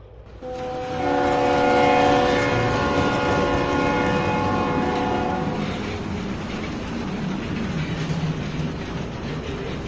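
Train horn sounding a steady multi-note chord for about five seconds over the rumble of a moving train; the rumble continues after the horn stops.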